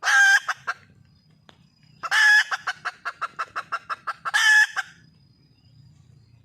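Red junglefowl hen calling for a male. A loud call comes at the start; about two seconds in, another loud call runs into a quick string of short clucks, about seven a second, and ends in a third loud call.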